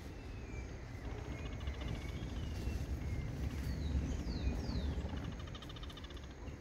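Birds calling with short falling whistles, several quick steep ones near the middle, over a steady pulsing trill and a low rumble.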